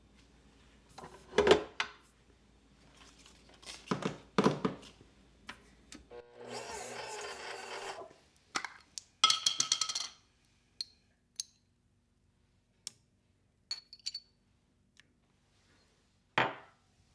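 Household objects being handled and set down: several knocks, a stretch of rubbing or scraping about six seconds in, a quick rattle of clicks around ten seconds, then a few light ticks and one more knock near the end.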